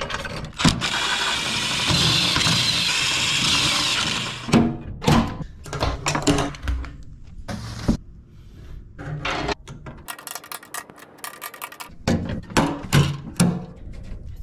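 A power tool runs steadily for about four seconds, followed by a string of knocks and clanks, typical of tool work on a vehicle repair.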